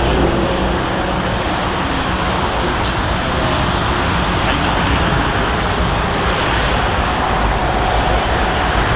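Steady jet engine noise from an ANA Boeing 787-9 airliner: a constant, even rush of sound with faint humming tones in it, holding level throughout.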